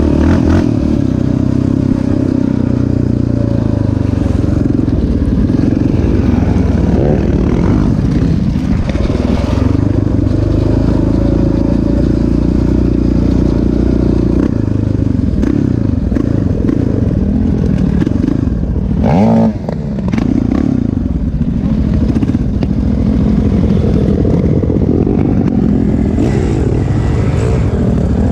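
Off-road bike engine running hard on a dirt motocross track. Its pitch drops briefly about two-thirds of the way through, then rises again as it revs back up.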